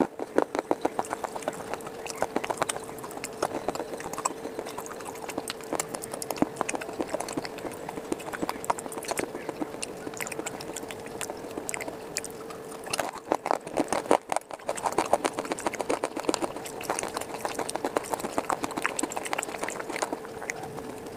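Close-up crunching and chewing of brittle baked-clay pieces: rapid, crisp cracks one after another, thickest in a burst a little past the middle. A steady faint hum runs underneath.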